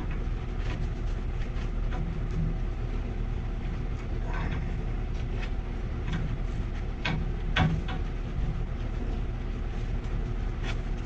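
Steady low mechanical hum, with scattered metallic clicks and knocks from gas pipe fittings and tools being handled, a few sharper ones around the middle.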